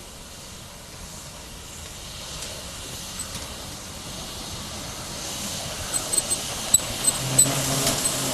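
Steam train approaching, a hissing running noise growing steadily louder, with sharp clicks and a low steady hum joining in over the last couple of seconds.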